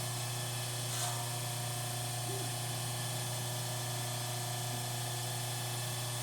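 Steady low electric hum of a running shop machine motor, with one faint click about a second in.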